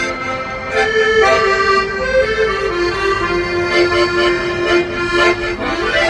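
Accordion playing a slow melody over sustained reedy chords, the notes held and changing every second or so.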